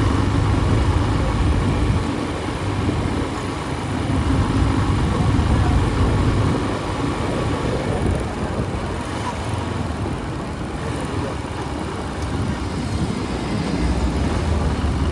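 Motorbike engine and street traffic heard while riding: a steady low rumble that swells and eases over a continuous noise of road and passing vehicles.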